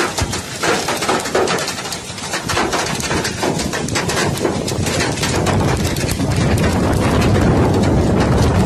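Hailstones striking a hard surface in rapid, irregular clicks, with a low rushing noise that builds up from about a third of the way in.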